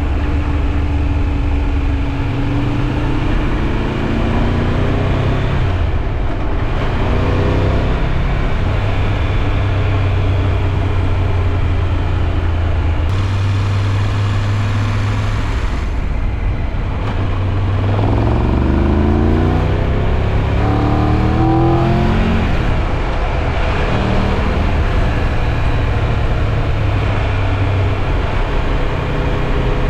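Triumph Tiger 1200 Rally Pro's three-cylinder engine under way: revs rise twice, about three seconds in and again past the halfway mark, with steady running in between.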